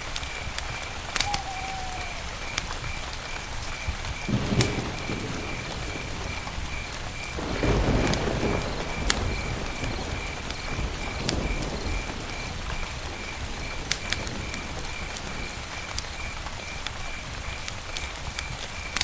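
Campfire crackling with scattered sharp pops, and two louder rushing swells of the fire about four and eight seconds in. A steady, faint, high-pitched pulsing runs underneath.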